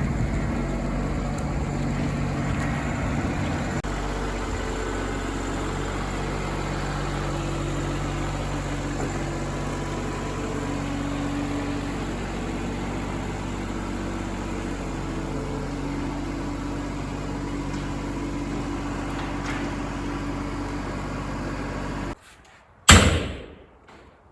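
John Deere 2210 compact tractor's diesel engine running steadily, its pitch shifting slightly as the tractor works. The engine sound cuts off near the end and a single loud thump follows.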